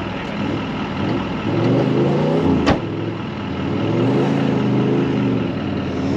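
Four-wheel-drive engine revving under load in two rising and falling surges, straining to drive out of an axle-deep bog. A single sharp knock about two and a half seconds in.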